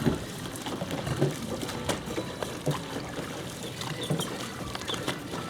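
Rowing boat under way: water splashing and trickling off the oars, with scattered knocks from the oars and riggers.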